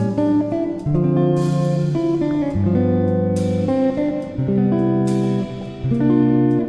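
Background music: a guitar plucking sustained notes and chords that change every second or so.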